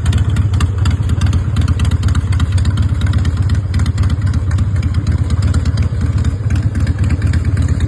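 Harley-Davidson V-twin motorcycle engine idling steadily with an uneven, pulsing beat.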